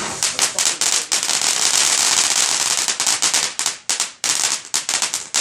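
A consumer firework going off in a rapid, irregular string of sharp crackling pops, many a second, with a few brief gaps.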